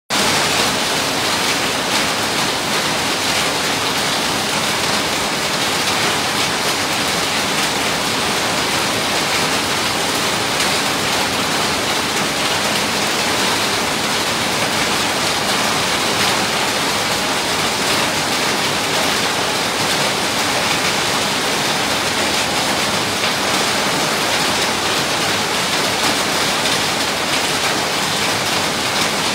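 Fairly heavy rain falling steadily on wet paving, an even, unbroken hiss.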